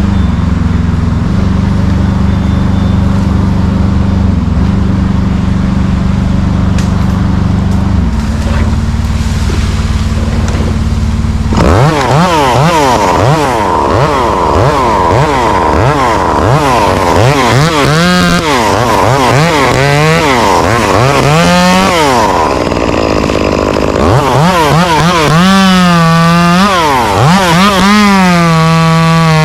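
An engine runs steadily for about twelve seconds, then a chainsaw is revved up and down many times in quick blips, and near the end it is held at high revs.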